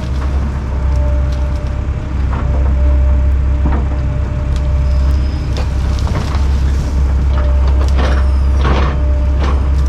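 Heavy diesel machine running steadily under load while wood cracks and snaps, with bursts of splintering as brush and small trees are broken.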